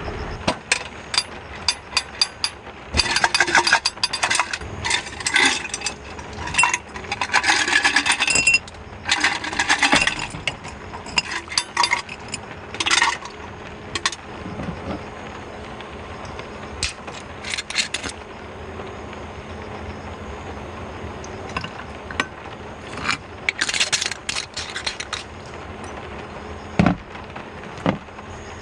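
Close-up handling sounds: repeated rustling, scraping and clicking of objects being moved and worked by hand, in bursts that are busiest in the first half, over a steady hiss of rain.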